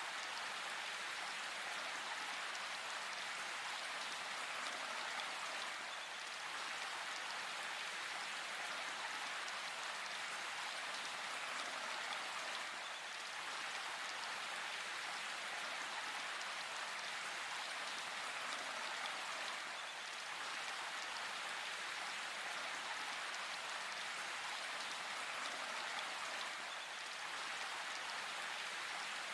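Steady rain falling in a forest, an even hiss of drops with no thunder or other events.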